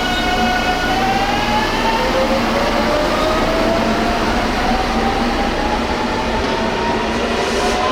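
Electric commuter train's inverter motor whine rising in pitch in steps as the train accelerates away, over a steady rumble of wheels and running gear.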